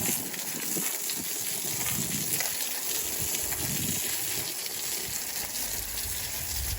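A steady stream of water gushing and splashing as tomato plants are watered.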